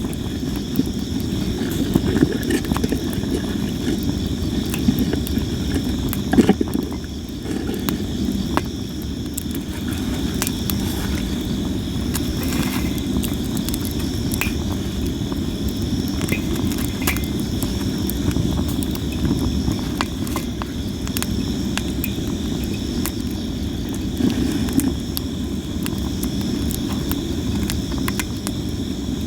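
Sawara-wood campfire crackling and popping with scattered sharp snaps, over a steady low rumble. Insects chirp steadily in the background.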